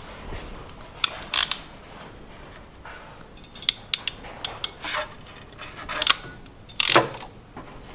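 Small hand tools clicking and snipping at irregular intervals while a terminal is worked onto an ignition wire, with the loudest click near the end.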